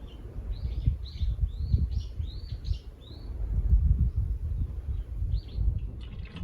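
A bird calling in a quick series of short arched notes, falling silent for a couple of seconds and then calling twice more near the end. Underneath, a louder low rumble that rises and falls unevenly, like wind buffeting the microphone.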